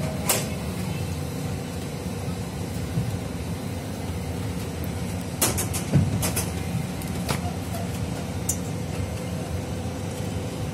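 Train running on the rails: a steady low rumble of wheels with a few sharp clacks, several of them bunched together about halfway through.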